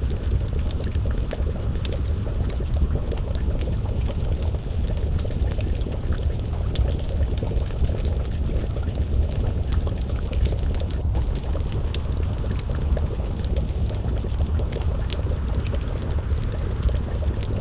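Wood fire crackling with scattered sharp pops over a steady low bubbling of a pot of stew simmering over the flames.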